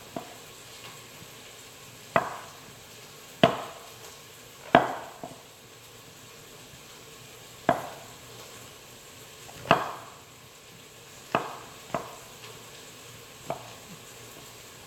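Knife slicing mushrooms on a cutting board: about nine separate, unhurried chops spaced irregularly, a second or more apart.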